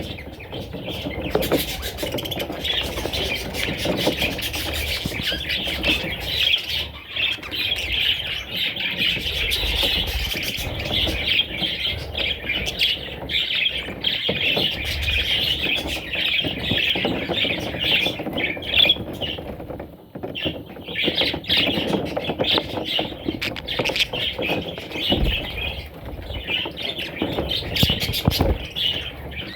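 Budgerigars chirping and chattering continuously in a dense stream of high chirps, with a brief lull about two-thirds of the way through.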